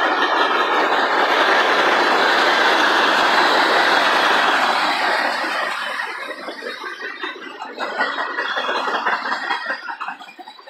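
Open-top hopper cars of a freight train rolling past close by: steel wheels on rail make a loud, steady rumble and rattle. After about five seconds it eases into a more uneven clatter of wheel clicks and bangs, then fades near the end.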